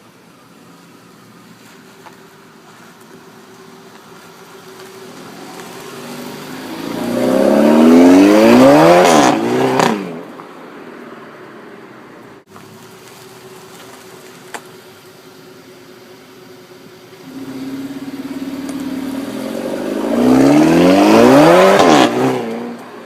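Mk6 VW Golf GTI's turbocharged 2.0-litre four-cylinder with an APR Stage 2 tune and APR RSC turbo-back exhaust, accelerating hard twice. Each pull builds over a few seconds to a loud peak and then cuts off suddenly, dropping back to a quiet engine note.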